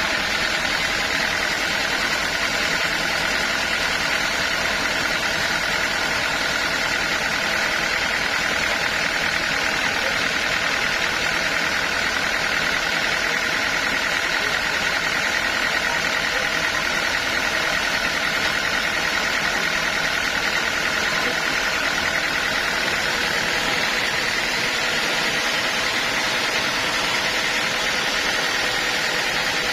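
Sawmill machinery running steadily, a continuous mechanical drone with an even high whine that holds the same pitch throughout.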